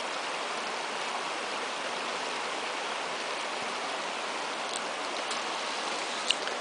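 Small restored brook trout stream flowing over rocks and log structures into plunge pools: a steady rush of water, with a few faint ticks in the last two seconds.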